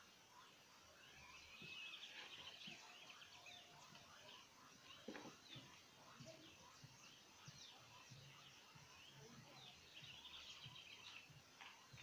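Near silence with faint birds chirping in the background, with a short trill about two seconds in and another near the end. A single faint knock about five seconds in.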